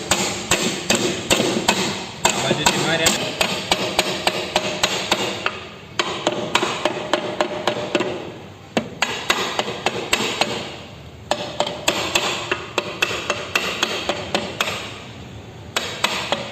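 Hammer striking metal in quick runs of blows, several a second with a ringing note, in four bursts separated by short pauses: parts being knocked loose from a car's power steering rack during its removal.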